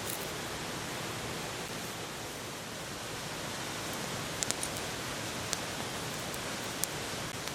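Steady rushing noise with a few sharp crackles from a small campfire about four to seven seconds in.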